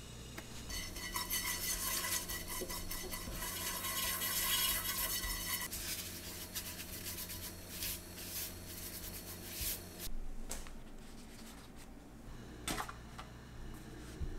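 A utensil scraping and clinking against a pan for about five seconds, then scattered clicks, with a few separate knocks near the end.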